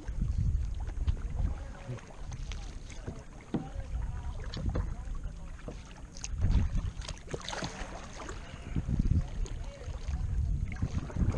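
Kayak paddling: the paddle dips and splashes at an uneven pace over lapping water, with wind rumbling on the microphone.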